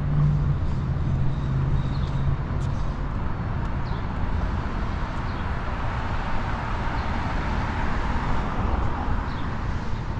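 Downtown street traffic noise: a steady wash of passing cars, with a vehicle's low engine hum that fades out in the first couple of seconds.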